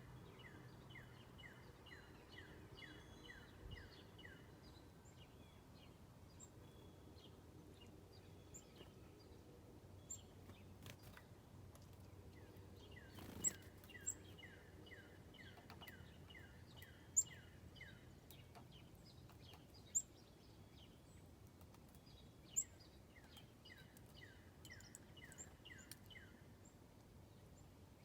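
Backyard songbirds calling: several runs of short, quickly repeated falling notes, about four a second, with a few sharp, loud single chips in between.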